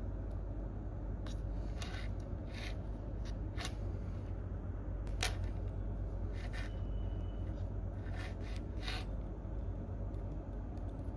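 Scattered computer keyboard and mouse clicks, one every second or so at an uneven pace, the sharpest about five seconds in, over a steady low hum.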